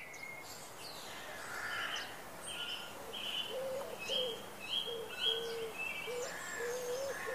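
Birds singing and calling: a mix of high chirps, joined from about three seconds in by a run of short, repeated low calls about twice a second.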